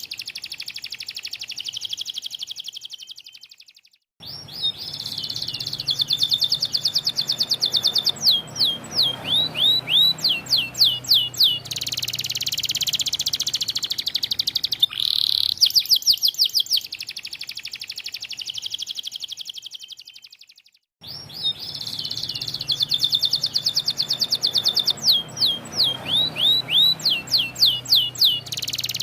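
White canary singing a long song of rapid trills and repeated downward-sweeping whistled notes. The song breaks off briefly twice, then starts again.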